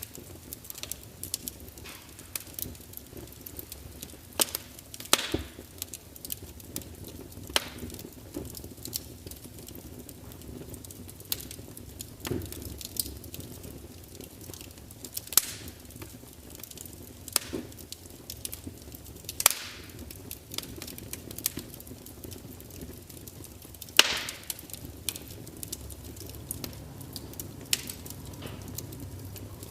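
Wood fire burning in a large open fireplace: irregular crackling with frequent sharp pops and snaps of burning logs over a low steady rumble of flames, the loudest snaps about 5, 19 and 24 seconds in.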